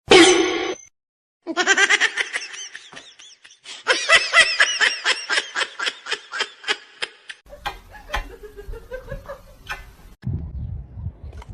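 A person laughing hard: a fast, even run of high-pitched ha's, about five a second, that follows a short, loud, high cry at the start and fades away. A lower, quieter sound follows near the end.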